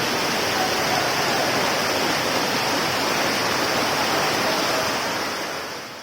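Heavy rain and rainwater rushing through a street, a steady loud rushing noise that fades out near the end.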